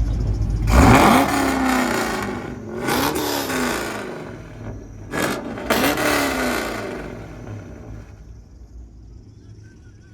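Car engine revved hard three times, about a second, three seconds and six seconds in, its pitch rising then falling back each time. Afterwards it fades away.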